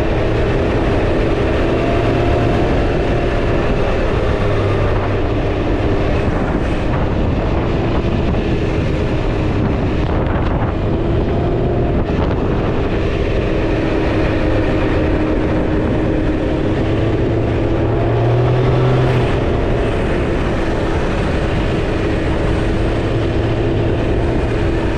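Can-Am Ryker 900 three-wheeler's engine running at a steady cruise while riding, its pitch holding nearly even with only small drifts.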